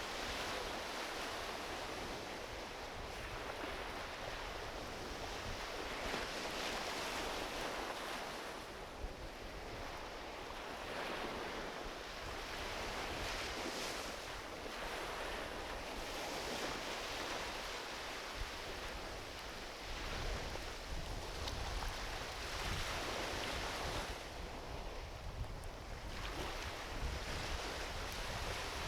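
Small ocean waves washing onto a beach, surging and easing every few seconds, with a couple of sharp pops from a driftwood campfire.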